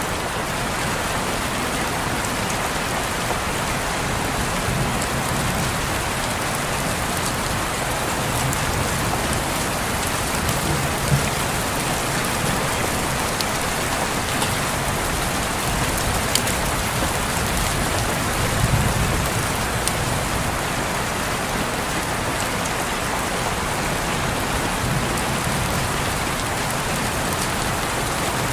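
Steady rain falling on a window, an even hiss with a few sharper single drop hits scattered through it.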